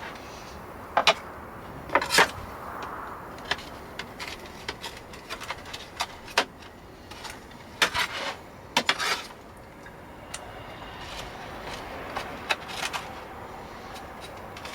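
A pan and cooking utensils clinking, knocking and scraping in a dozen or so irregular sharp clicks, the loudest about 1, 2, 8 and 9 seconds in, over a faint steady hiss.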